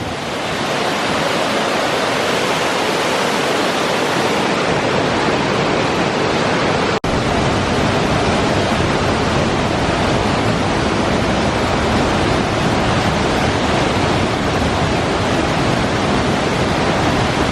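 A waterfall's steady loud rush of falling water close to the microphone. It breaks off for an instant about seven seconds in, then continues unchanged.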